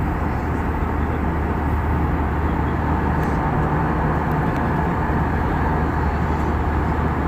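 Steady engine and airflow noise inside a jet airliner's cabin, an even rush over a constant low hum.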